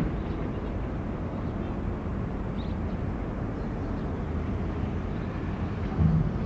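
Diesel engine of heavy construction machinery running with a steady low rumble, with one brief louder surge near the end.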